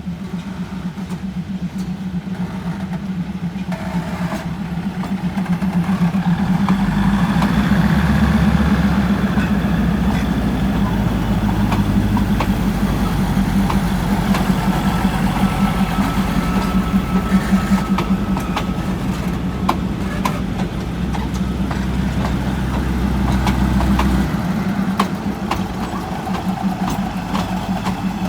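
Diesel train engine running close by with a steady, pulsing hum; a deeper rumble builds about seven seconds in, as if under load, and falls away again near the end.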